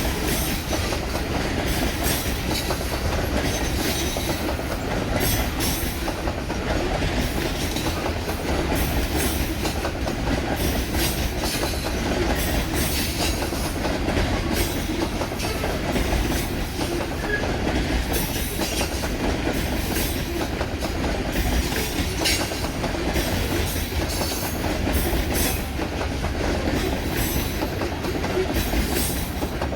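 CSX coal train's hopper cars rolling past with a steady rumble, their wheels clicking irregularly over rail joints.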